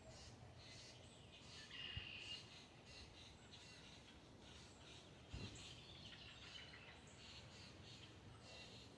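Faint, scattered chirping of birds, with two soft low thumps, one about two seconds in and one past the five-second mark.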